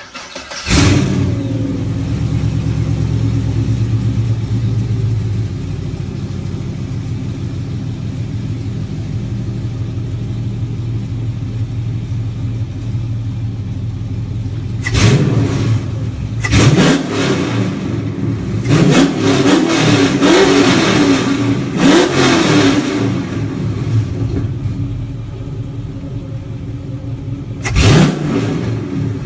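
A 2004 GM 5.3-litre V8 running through long-tube headers, a 3-inch X-pipe and Dynomax Mini Race Bullet mufflers: it fires up, idles fast for a few seconds and then settles into a steady idle. About halfway through it is revved, then blipped several times in quick succession, and revved once more near the end.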